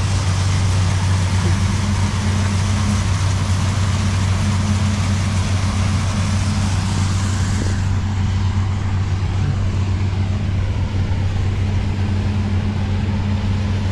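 Combine harvester's diesel engine and threshing machinery running at a steady speed with a constant low hum and a broad mechanical rush; the high hiss eases off about eight seconds in.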